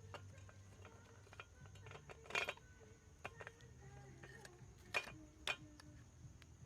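Kitchen utensils clinking and knocking against cookware: scattered sharp knocks, the loudest about two and a half seconds in and two more a little before the end, with lighter ticks between.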